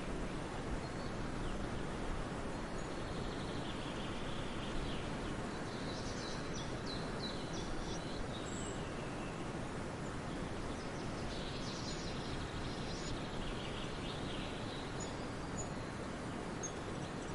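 Small birds chirping and twittering in two clusters, about a third and two-thirds of the way through, with a few short high notes near the end, over a steady background hiss of outdoor noise that is louder than the birds.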